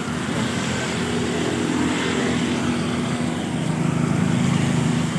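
A motor vehicle's engine running steadily along with road noise, getting louder about three and a half seconds in.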